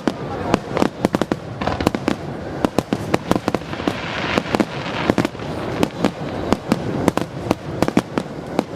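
Aerial fireworks going off, a rapid irregular string of sharp bangs and crackles several per second, over a steady rumble.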